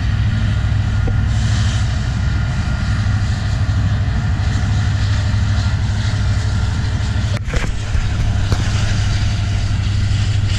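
Steady low engine rumble with a faint constant whine above it, broken by a brief dip and click about seven and a half seconds in.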